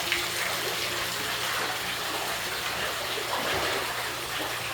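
Floodwater running and trickling into a flooded basement, a steady rushing noise with a low hum underneath.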